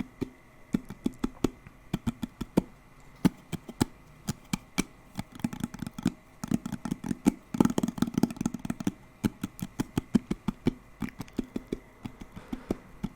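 Fingers tapping quickly and irregularly on a hard object, with a faster, denser flurry of taps in the middle.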